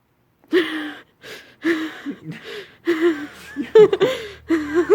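A person laughing in a run of short bursts, starting about half a second in.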